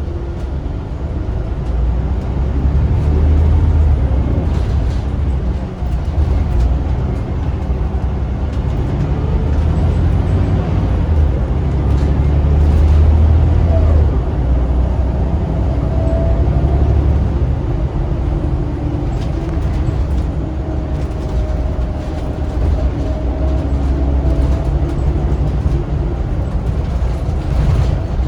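Scania L94UB bus with its Scania DC9 9-litre six-cylinder turbo diesel, driving under way with a heavy low rumble. The engine sound builds over the first few seconds, and a faint whine rises and falls now and then.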